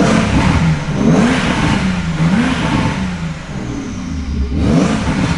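Porsche 992 Carrera S twin-turbo flat-six revved several times through an OPF-delete full exhaust with its valves open in sport mode, the pitch rising and falling with each blip of the throttle.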